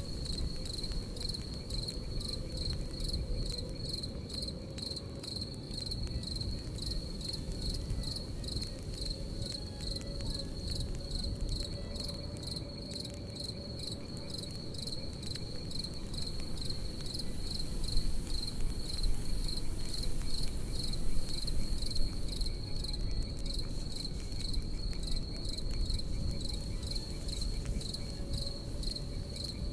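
Crickets chirping in a steady pulsed rhythm, about two chirps a second, over the low rush and sharp crackles of a campfire, with a few louder pops about two-thirds of the way through.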